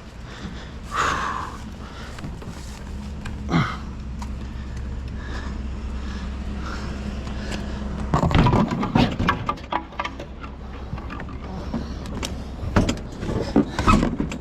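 A vehicle engine idles with a steady low hum. About eight seconds in, and again near the end, scrap metal clanks and knocks in short clattering runs as pieces are handled and set down.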